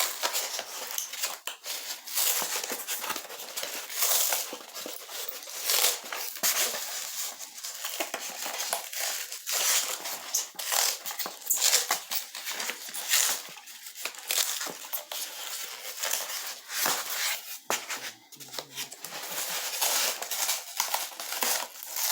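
Styrofoam insulation and tape being pried, torn and peeled off the back of a cured rubber mold: irregular crinkling, crunching and tearing sounds, with short sharp crackles throughout.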